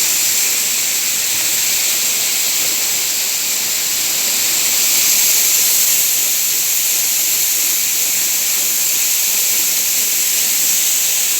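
Waterfall's falling water rushing steadily, a loud, even, high-pitched hiss.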